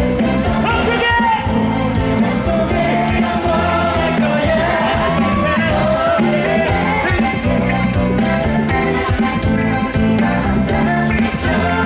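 Live pop music played loud over a concert sound system: full band accompaniment with a sung melody over it.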